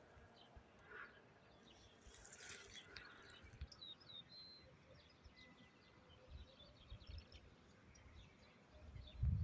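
Faint songbirds chirping and whistling, a few short high calls a second, over a low outdoor rumble with occasional low thumps and a stronger low rumble near the end.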